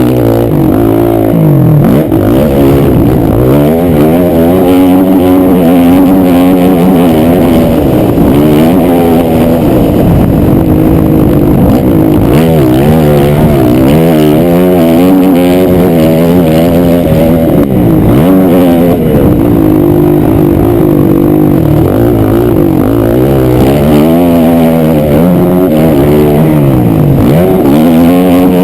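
Honda 450 dirt bike's single-cylinder four-stroke engine being ridden hard, revving up and dropping off again and again, its pitch rising and falling every second or two.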